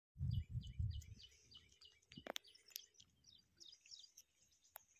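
A small bird calling a quick series of short, high chirps, about five a second, fading out near the end. A few low thumps in the first second are the loudest thing.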